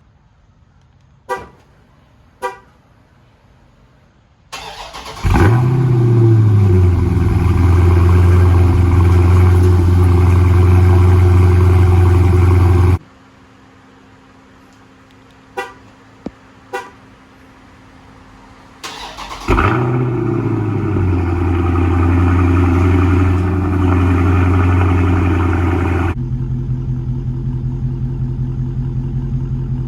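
Two short horn chirps, then a Dodge V8 cranks, fires with a brief rev flare and settles into a loud idle before shutting off. After more chirps it starts again the same way and idles, the exhaust tone changing abruptly about 26 seconds in.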